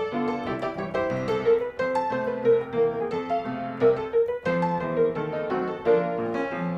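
Background music: piano playing a melody of repeated notes with chords.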